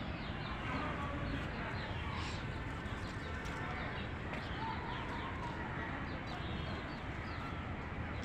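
Birds chirping: many short, quick calls scattered throughout over a steady background hiss.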